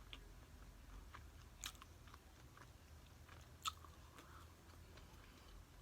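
Faint chewing of loaded nachos, with a few sharp wet mouth clicks, the loudest two about one and a half and three and a half seconds in.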